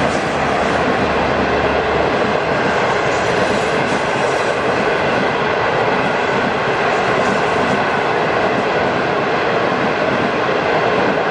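Steady wheel-on-rail noise from a train of 25G passenger coaches rolling past and drawing away, hauled by an HXD3C electric locomotive.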